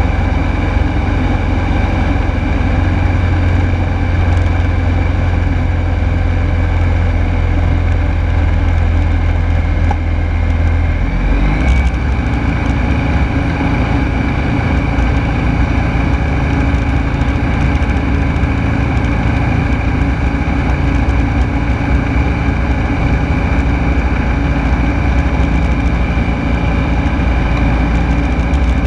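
The Rotax 912S four-cylinder engine and propeller of a Rans Coyote S6 ultralight drone steadily in flight, heard from inside the cockpit. The engine note shifts once, about eleven seconds in, then holds steady again.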